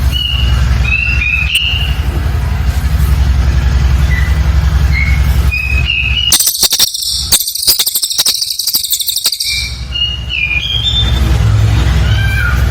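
Cililin bird song: short high whistled notes, broken by a dense, rapid high-pitched trill of about three seconds in the middle, over a steady low hum.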